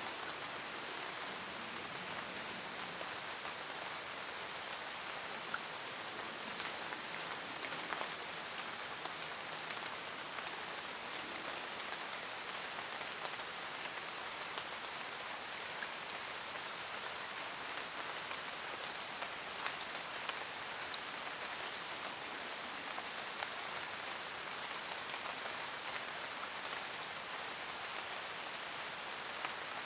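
Steady rain falling in a forest, a continuous hiss with many small scattered drop ticks.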